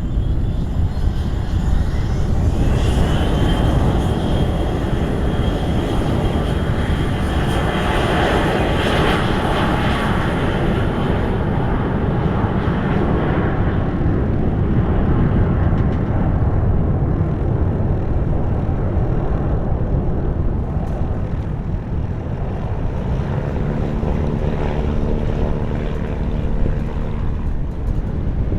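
Jet airliner passing: the engine whine rises to a high steady tone, then the engine noise swells about 8 to 10 seconds in and slowly fades. Strong wind buffets the microphone. Near the end a low hum with several steady tones comes in.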